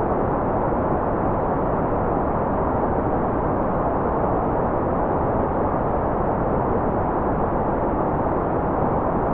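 Steady, unchanging white noise played as a continuous focus and sleep sound, muffled rather than bright, without a break or change.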